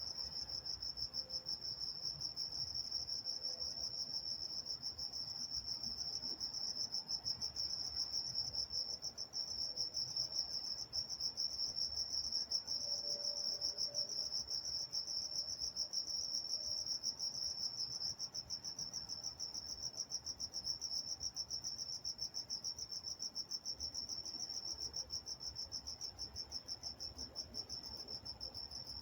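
Night chorus of crickets: a steady, high-pitched, rapidly pulsing chirping that goes on without a break, with a faint low rumble underneath.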